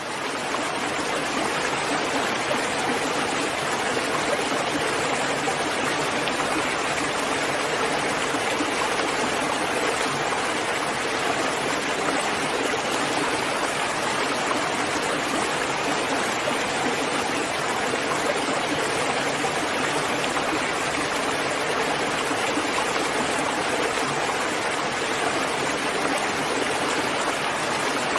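Steady rain falling, a dense even hiss that fades in over the first moment and then holds at an unchanging level.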